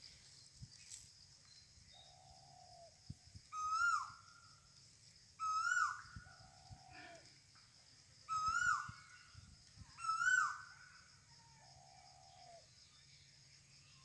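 Birds calling back and forth: a loud short call that rises and then falls, with overtones, comes four times, alternating with a lower, longer, slightly falling note heard about three times. A steady high-pitched insect drone runs underneath.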